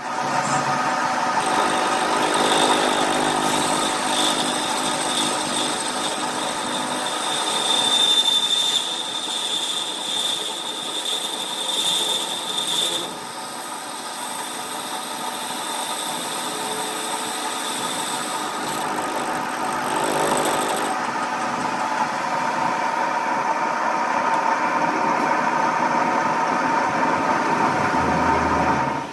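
Workshop machinery running steadily with a high whine over a mechanical hum, changing character abruptly twice.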